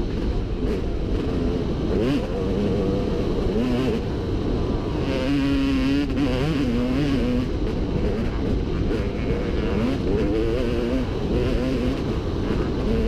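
Dirt bike engine running under load while riding, its pitch rising and falling again and again as the throttle opens and closes, over a heavy low rumble.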